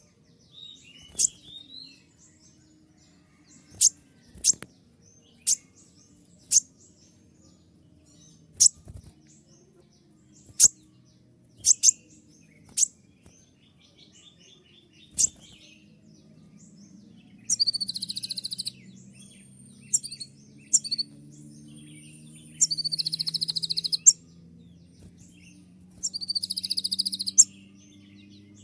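Kolibri ninja sunbird calling: a run of single sharp, very high 'tembakan' chirps at irregular intervals, then three louder, buzzy trilled bursts of about a second and a half each in the last third.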